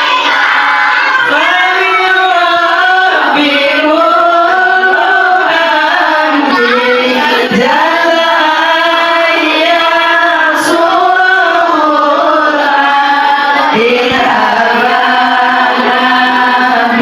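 A group of children singing a sholawat together in one melody, with long held notes that glide between pitches.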